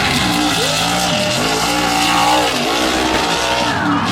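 Mega truck engine revving hard in a mud race. Its pitch drops and climbs back about three times as the throttle is lifted and reapplied, over a loud, steady hiss.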